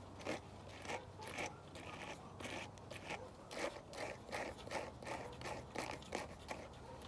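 A brush pulled in short, scratchy strokes through a bichon's curly coat, about two strokes a second.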